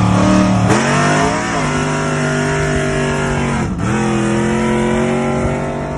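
Turbocharged truck engine running hard under load. Its pitch dips briefly twice, about a second in and again near four seconds in, then climbs back each time and holds steady.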